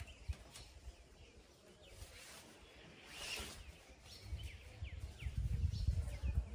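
Small birds chirping in the background with short, falling calls, over a low rumble that grows louder in the second half. A brief rustle comes about three seconds in.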